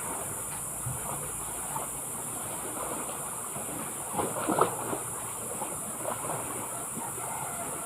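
Sea water washing and lapping, with a cluster of short louder splashes about four to five seconds in.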